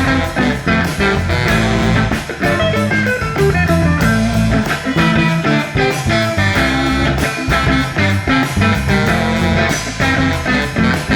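Instrumental band music: electric guitar playing a melodic line over bass guitar and a drum kit keeping a steady beat, in a psychedelic rock and jazz vein.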